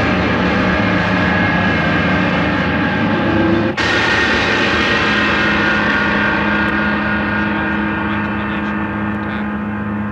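Dense, droning film score made of many sustained tones layered over each other, with an abrupt cut about four seconds in to a new set of held drones that slowly thins out.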